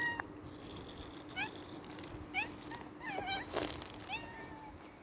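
Cat meowing: a series of short, high-pitched mews about once a second, with a sharp click just past the middle.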